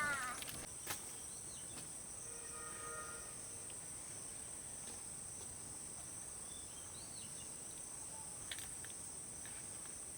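Steady, high-pitched chorus of insects in the background. A few faint chirps are heard about two-thirds of the way through.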